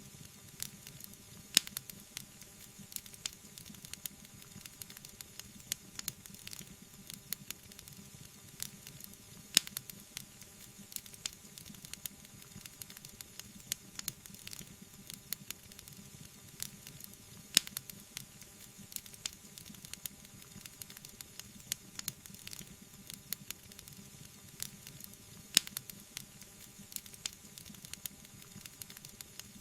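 Wood fire crackling: a dense scatter of small crackles and pops over a soft hiss, with a sharper, louder pop about every eight seconds.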